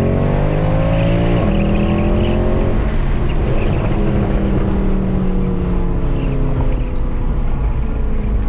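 Mercedes C63 AMG's 6.2-litre V8, with secondary cats and resonators deleted, under hard acceleration: the revs climb, drop at a gearshift about one and a half seconds in, climb again, then fall away steadily from about three seconds in.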